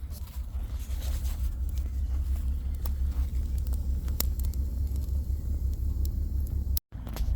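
Small campfire of sticks burning, with a few scattered sharp crackles, over a steady low rumble. The sound cuts out briefly near the end.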